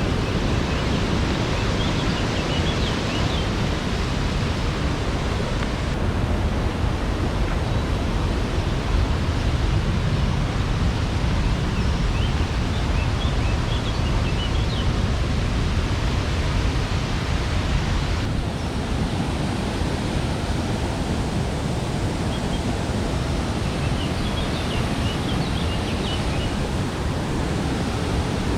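Steady roar of a waterfall's rushing water, with faint high chirps coming through it three times.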